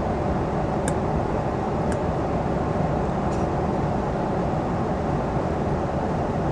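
Steady low rumble of an airliner cabin in cruise, with a few faint clicks.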